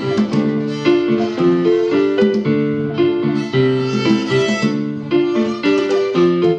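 Keyboard playing a rhythmic run of chords and notes, an instrumental passage of a rock song.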